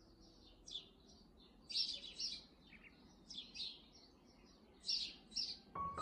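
Small birds chirping: short high chirps in little bunches, roughly once a second. Plucked guitar music comes in near the end.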